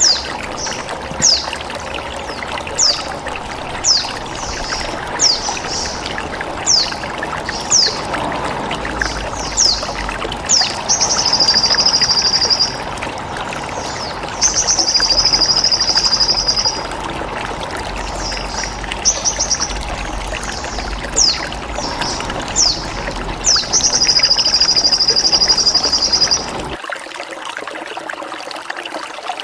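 Sogon songbird calling with short, sharp, falling chirps about once a second, broken by three long, steady, high buzzing phrases in the style of a bren cicada, over continuously trickling water. The deeper part of the water sound cuts off abruptly near the end.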